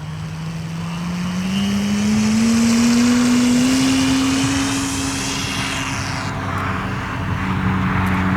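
Radio-controlled Phoenix Models Waco biplane taking off, its propeller and motor rising steadily in pitch over the first few seconds as the throttle comes up. The note holds, then drops near the end as the power is eased back.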